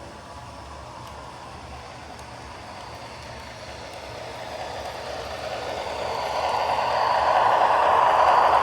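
MTH O-gauge model subway train running along the track, its wheel and motor noise growing louder as it approaches and loudest near the end, over a steady low hum.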